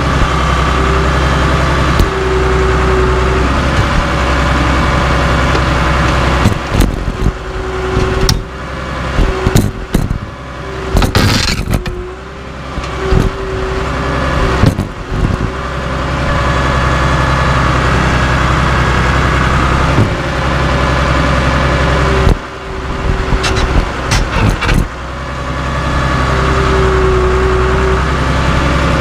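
Cat D3C LGP bulldozer's diesel engine running steadily with a steady whine over it. A third of the way in it breaks into a run of sharp metal clanks and bangs with the engine labouring, and a shorter run comes again later, as the dozer crushes steel wheels.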